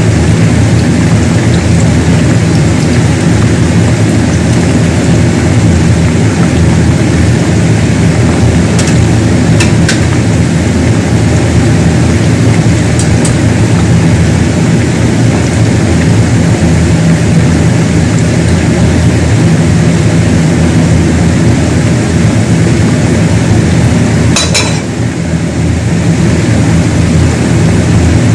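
Steady loud sizzle of potatoes frying in oil, over a steady low hum, with a few light clicks around ten seconds in and near the end.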